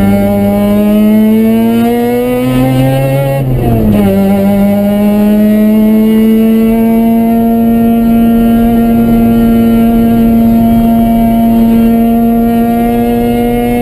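Mazda RX-7's two-rotor rotary engine at speed on track, heard from inside the cabin. Revs climb for about three and a half seconds, drop sharply at an upshift, then hold a near-steady, slowly rising pitch.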